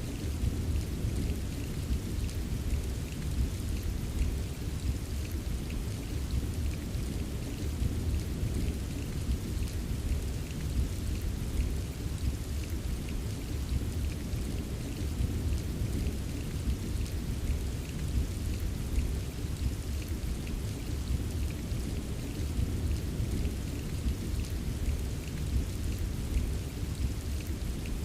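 Steady rain with many small drop ticks, over a continuous deep rumble of distant thunder; no single sharp thunderclap.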